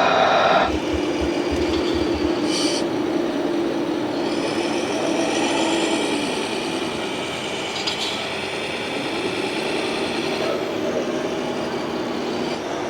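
RC model truck running: a steady whine from its electric motor and gearbox, easing off about six seconds in and picking up again a few seconds later.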